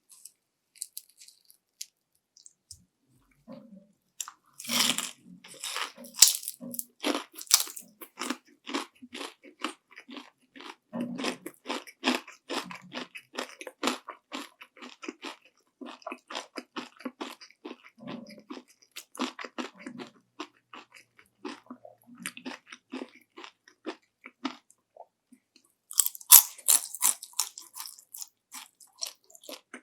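Close-miked crunching bite into panko-breaded fried shrimp about five seconds in, followed by steady crunchy chewing. Another loud crunching bite comes near the end.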